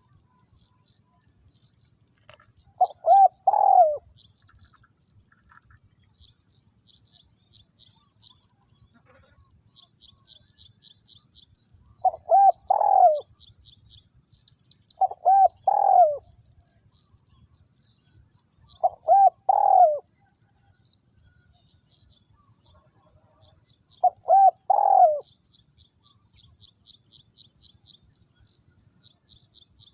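Spotted dove (cu gáy) kept as a decoy bird, cooing: five loud phrases of about three notes each, spaced several seconds apart. Small birds chirp faintly and high in the background.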